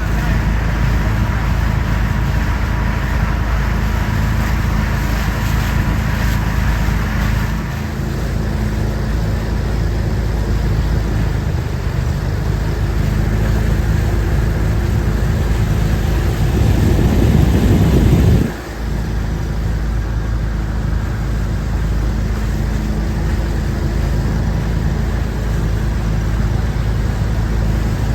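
A jon boat's motor running steadily under way. It gets louder for a couple of seconds, then drops off sharply about two-thirds of the way through before holding steady again.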